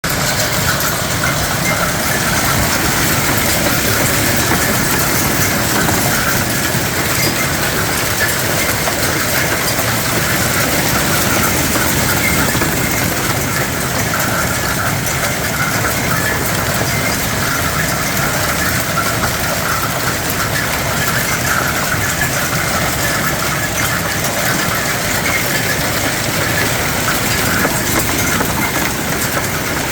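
Heavy hail coming down: countless hailstones striking hard surfaces in a dense, steady rattle.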